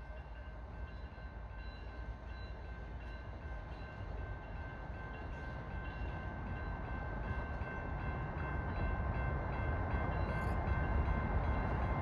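Two diesel-electric freight locomotives, a GE ET44AC and an AC44C6M, running light with no cars, their engine rumble growing steadily louder as they approach.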